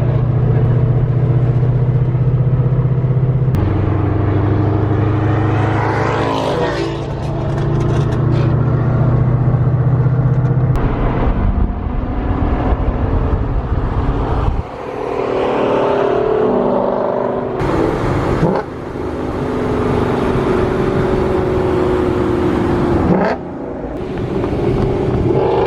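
Boosted 5.0 V8 Mustang engine running with a steady low note, then accelerating hard in several rising pulls from about ten seconds in, each broken off abruptly.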